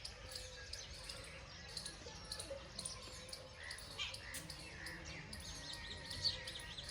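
Birds chirping in short, scattered calls over a low steady rumble.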